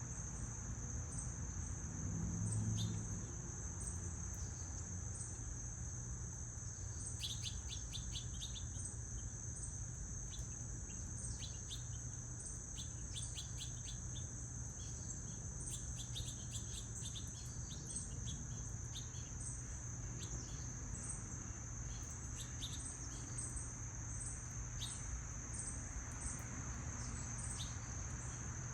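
Insects trilling on one steady high note, with short high ticks about once a second. Small birds give quick series of chirps over it, busiest in the middle. A brief low rumble about two seconds in stands out over a steady low hum.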